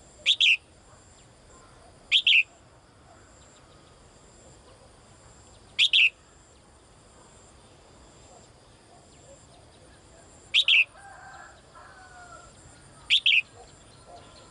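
A caged female bird giving a short, sharp double-noted call that drops in pitch, five times at uneven intervals; it is calling to a male. A fainter, lower warble is heard briefly after the fourth call.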